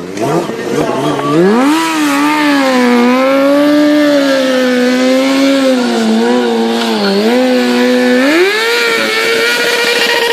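Stunt motorcycle's engine revved up about a second in and held at high revs, its pitch wavering; it dips briefly about seven seconds in, then climbs higher still near the end.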